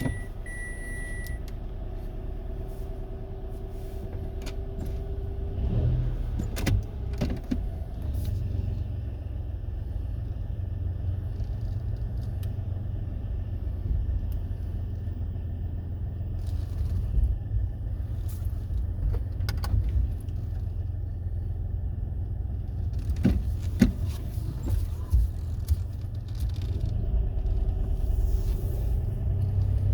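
Mitsubishi Mirage running, a steady low rumble with a few scattered sharp clicks and knocks, about six to eight seconds in, around twenty seconds and again a few seconds later.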